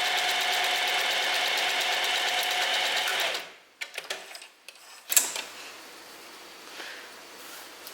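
Domestic sewing machine running steadily, sewing a test zigzag stitch on scrap jersey fabric, then stopping about three and a half seconds in. A few sharp clicks follow, the loudest about five seconds in.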